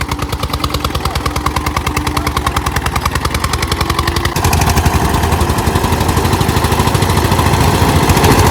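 Eicher 241 tractor's single-cylinder diesel engine chugging hard while pulling under load, a fast, even beat of exhaust pulses. It jumps louder and harsher about four seconds in.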